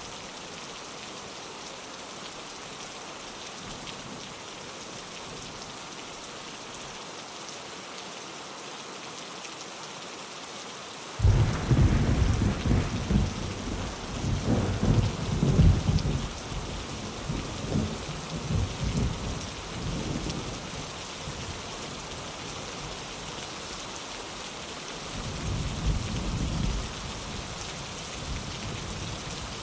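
Steady rain falling on a window, with a sudden clap of thunder about a third of the way in that rolls and rumbles for several seconds, then a second, shorter rumble of thunder near the end.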